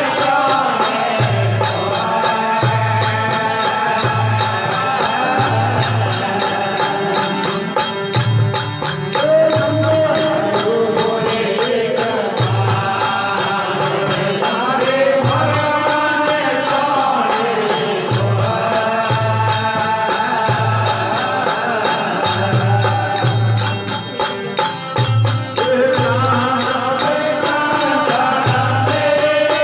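Rajasthani devotional folk bhajan music: a chant-like melody over a steady, regular low drum beat with fast, even jingling percussion.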